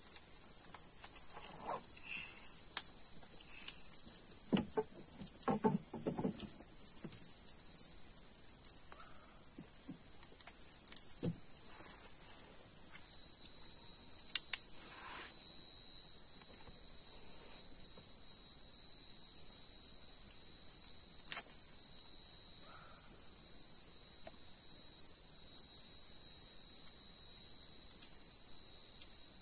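Night insects chirring in a steady, continuous high-pitched chorus, with a few scattered faint knocks and clicks.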